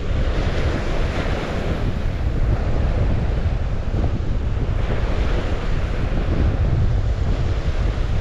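Steady rush of water with wind buffeting the microphone, giving a ragged, deep rumble underneath.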